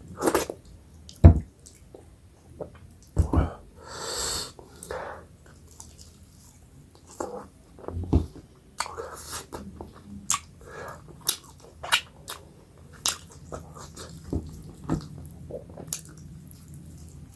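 A person eating millet dhido and chicken curry: chewing with wet mouth clicks and smacks, plus a brief hiss-like sound about four seconds in.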